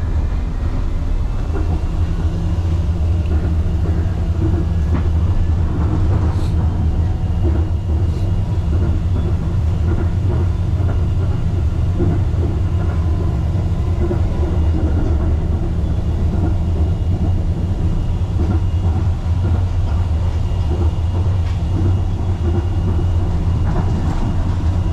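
Wuppertal Schwebebahn suspended monorail car running along its overhead rail, heard from inside the car: a steady low rumble with a faint high whine over it.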